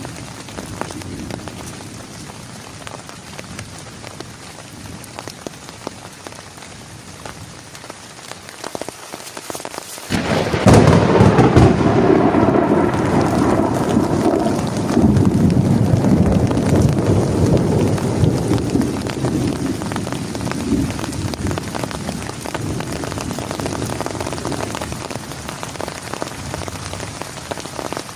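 Rain falling steadily, then about a third of the way in a sudden loud thunderclap that rolls and rumbles for several seconds before slowly fading back under the rain.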